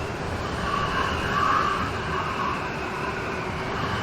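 Steady rain storm hiss with a higher wavering tone that swells about a second and a half in and then fades.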